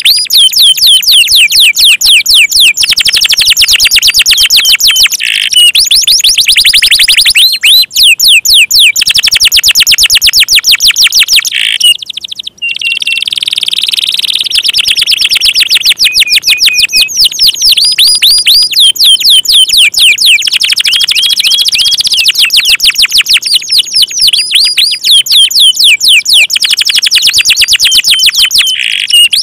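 Domestic canary singing loudly and without pause: long runs of rapid, high whistled trills, the notes repeating many times a second. The song breaks off briefly about twelve seconds in.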